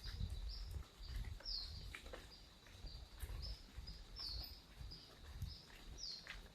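A bird repeating short, high chirps about twice a second, over a faint steady high insect tone, with scattered light ticks and a low rumble.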